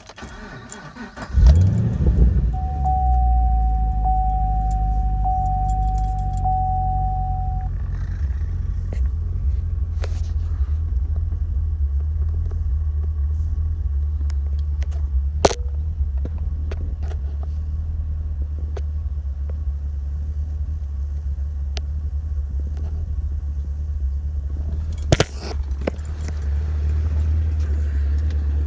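A 2015 Camaro SS's 6.2L LS3 V8 cranked by a weak starter that sounds like it is struggling, catching about a second and a half in with a flare, then settling into a lumpy idle that is normal for this engine. A steady high tone sounds for several seconds after it starts, and a couple of sharp clicks come later.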